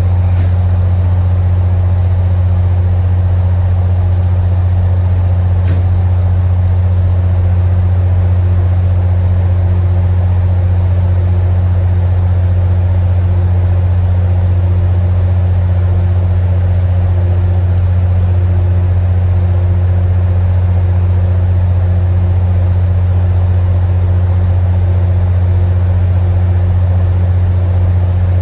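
MBTA commuter rail diesel locomotive running at a steady engine speed, a loud, constant low drone.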